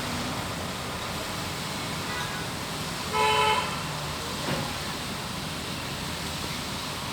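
Steady hiss of heavy rain and traffic on a wet highway, with one short vehicle horn honk about three seconds in.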